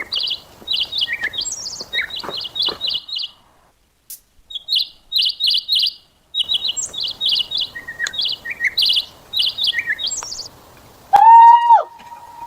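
Birds chirping in quick runs of short, high notes, the runs stopping and starting. Near the end comes one loud, short pitched tone, dipping slightly at its start and then held for about half a second.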